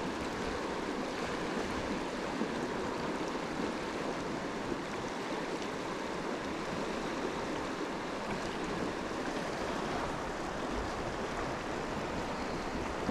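Steady rush of flowing stream water, with a few faint brief ticks over it.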